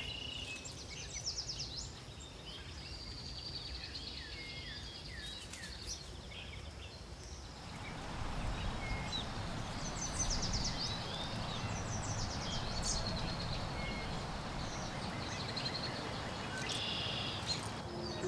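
Several birds chirping and trilling outdoors in short repeated calls. About eight seconds in, a steady rushing noise swells up underneath and stays.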